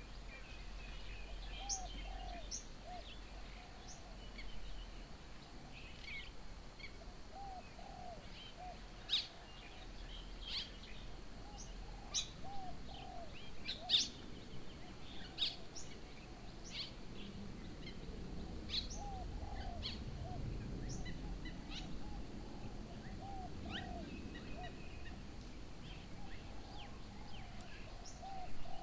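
Several birds calling: scattered sharp, high chirps over a repeated run of short, low curved notes. A faint low rumble rises in the second half.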